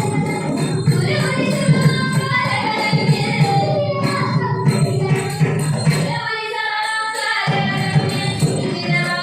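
Ottan Thullal music: a sung verse over steady hand-cymbal (ilathalam) jingling and a drum beat. The drum drops out for about a second after the middle, then comes back in.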